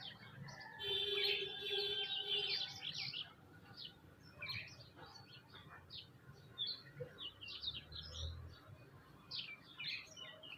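Many small birds chirping in quick short calls. About a second in, a louder steady held tone sounds for about a second over the chirps.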